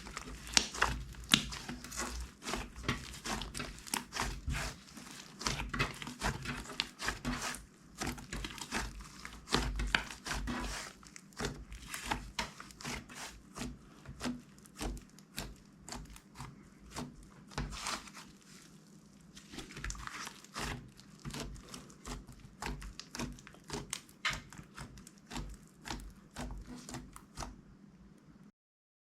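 Slime being squished and worked by hand: a dense, irregular run of crackles and pops, cutting off abruptly near the end.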